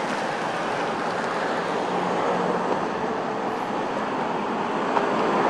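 Road traffic noise: a motor vehicle running past, a steady rush of tyre and engine sound.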